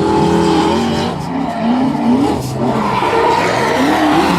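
Toyota Supra's swapped BMW 4-litre V8 revving up and down repeatedly while the car drifts, with tyres skidding and squealing.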